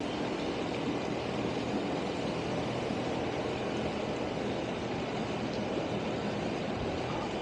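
A vehicle engine running steadily, a constant rumble with a faint steady hum.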